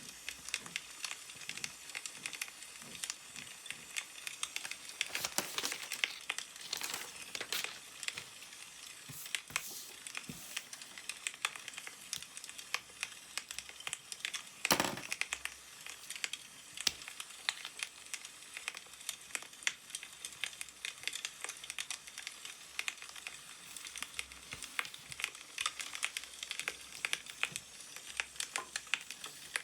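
Newspaper being handled, crinkling and rustling, over the steady crackle of a firewood fire. One louder rustle of paper comes about halfway through.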